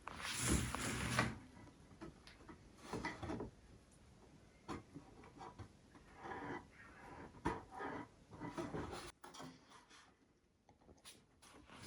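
Hand work on wooden furniture: a loud scrape or rub in about the first second, then scattered knocks, clicks and short rubbing sounds.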